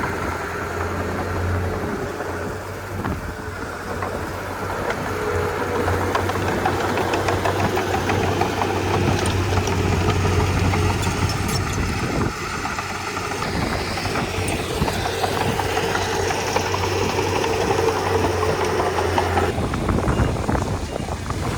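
A Komatsu D31P bulldozer's diesel engine running steadily under work. A low hum in the sound drops out near the end.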